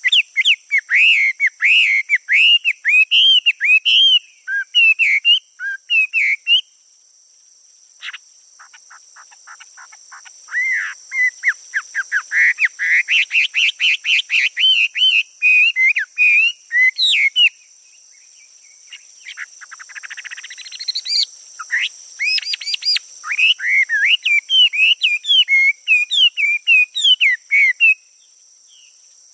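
A male songbird singing in rapid, twisting warbled phrases, in several bouts with short pauses between them, over a steady high insect drone.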